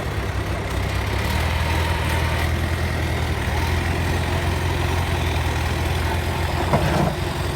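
Heavy truck engine running with a steady low drone that grows a little stronger about a second in. A brief knock comes near the end.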